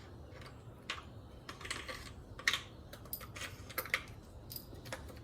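Irregular light clicks and taps of hand tools and metal parts, a few a second, while bolts are worked out of an engine's intake manifold.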